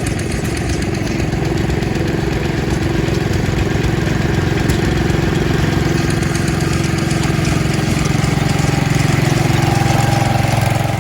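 The hit-and-miss engine of a large early-1900s traction engine running steadily. It holds a rock-steady pace with no slowing between fires, which the speaker puts down to the inertia of its giant flywheels. The sound cuts off just before the end.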